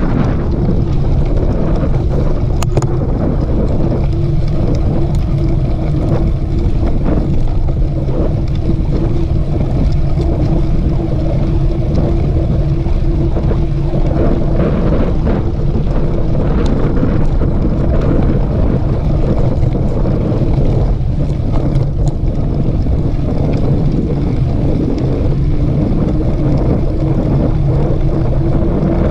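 Wind buffeting a camera microphone over the rumble of mountain bike tyres rolling on a dirt trail, with scattered short clicks and rattles from the bike.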